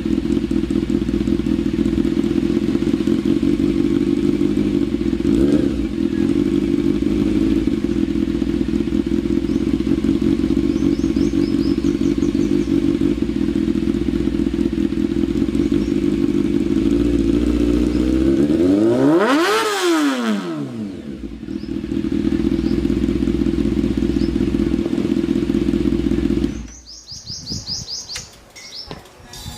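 600cc superbike with a replica aftermarket slip-on exhaust running steadily at idle, loud and deep. Around two-thirds through, the pitch sweeps down and back up over a couple of seconds. The engine sound cuts off suddenly near the end, leaving faint bird chirps.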